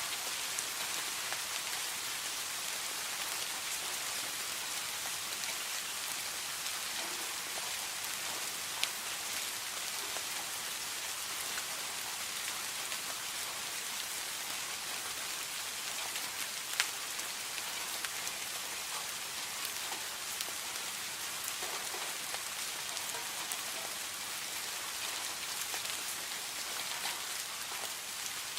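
Steady rain falling on a surface, an even hiss with individual drops ticking through it, a couple of slightly louder drop hits about nine and seventeen seconds in.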